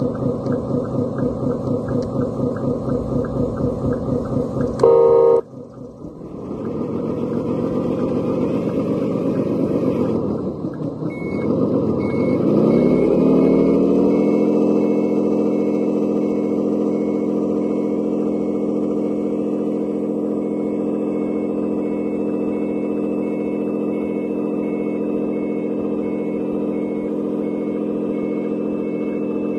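The engine-sound module of a 1/14-scale RC Scania truck plays a diesel engine idling with a pulsing beat, then a short loud horn blast about five seconds in. The engine revs up twice and settles into a steady high running note, with reversing beeps repeating from about twelve seconds in.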